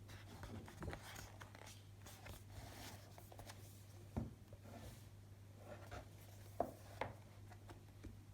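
Faint rustling and scraping of objects being handled, with a few soft knocks about four, six and a half and seven seconds in, over a steady low hum.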